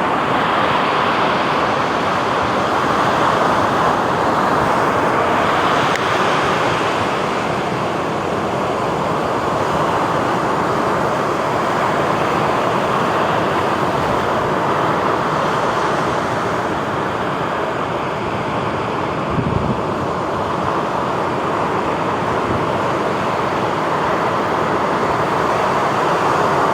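Ocean surf breaking and washing on a beach: a steady wash of noise that swells several times as waves come in. A brief low thump sounds about two-thirds of the way through.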